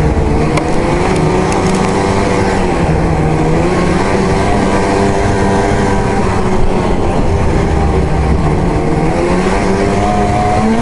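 Arctic Cat ZR 8000 snowmobile's 800 C-TEC two-stroke twin running under way, its pitch dipping a few seconds in and then climbing steadily again toward the end.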